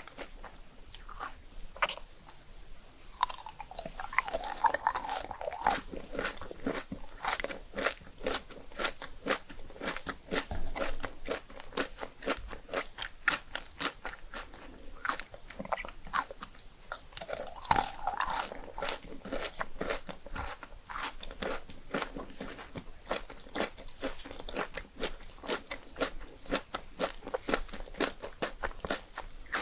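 Close-up chewing of crunchy puffed rice cakes: a rapid, steady run of crisp crunches, with louder, fuller crunches about four seconds in and again about eighteen seconds in.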